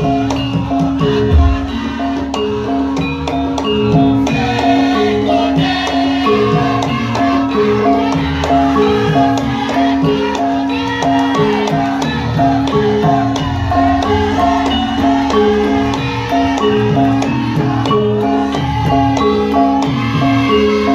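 Javanese gamelan ensemble playing: struck bronze keys ring out a short repeating melody over a steady held low tone, with drum strokes underneath.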